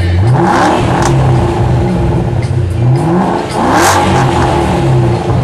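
Ford Shelby GT500's supercharged V8 through an aftermarket exhaust, revved twice: the pitch climbs about half a second in, eases back, and climbs again just past three seconds.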